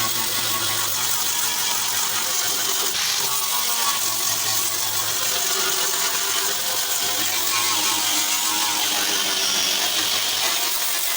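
A motor-driven machine running steadily, its pitch wavering slightly, over a constant hum.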